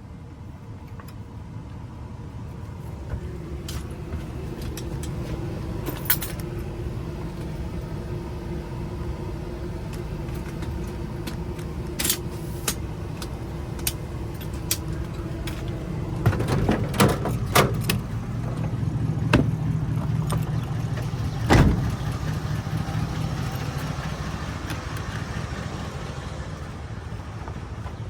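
A vehicle engine's steady low rumble with a droning tone in it, and scattered sharp clicks and knocks: a cluster about two-thirds of the way in and a louder single knock shortly after.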